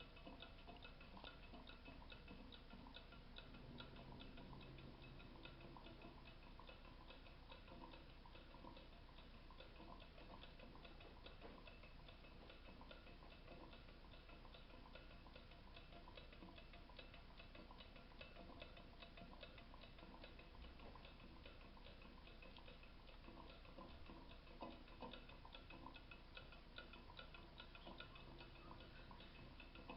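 Small model Stirling engine fan running steadily, its crank and piston linkage giving a faint, rapid, even ticking.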